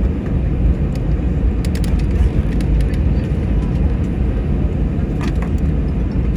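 Steady low rumble inside the cabin of an Airbus A321-211 taxiing on the ground with its engines at idle, with a few faint clicks about two and five seconds in.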